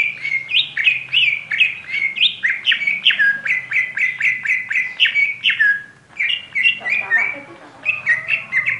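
An oriental magpie-robin (kacer) singing a rapid string of loud, downslurred whistled notes, about three a second, with a brief break about six seconds in.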